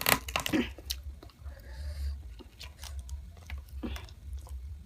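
Close-up chewing of chicken: wet mouth smacks and small clicks, with a louder bite in the first half second, over a steady low hum.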